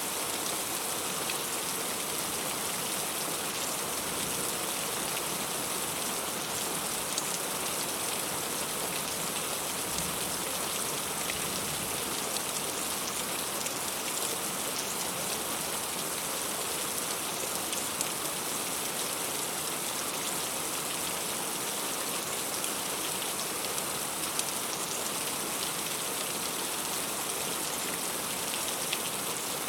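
Steady heavy rain falling, with many sharp individual drop hits spattering on a surface.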